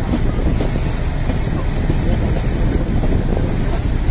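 Narrow-gauge Kangra Valley train running: a steady rumble and rattle of the carriage rolling on the rails, with wind on the microphone and a faint steady high whine.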